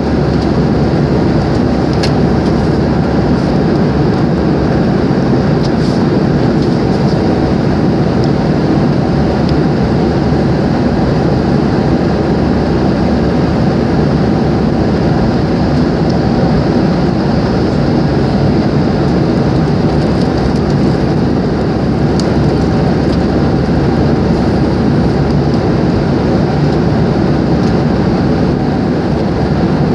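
Steady loud cabin noise of an airliner: engines and rushing air forming a constant low roar, with a couple of faint clicks.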